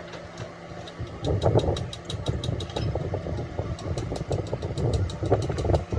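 An engine running steadily, with a rapid regular ticking of about five ticks a second through the middle.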